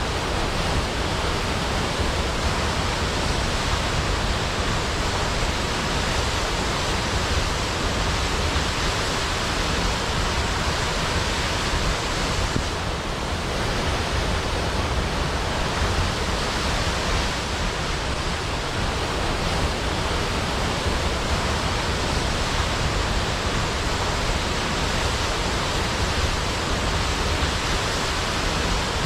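A large waterfall pouring steadily, a dense, even rush of falling water with no breaks or distinct splashes.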